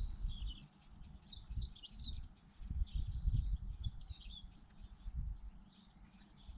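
Small birds chirping and twittering in short bright calls, over uneven low rumbling thumps that come and go.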